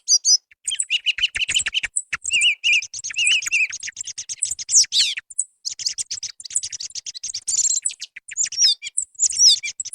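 Song thrush singing a fast, unbroken run of varied whistled and chirping notes, with short motifs repeated several times in a row.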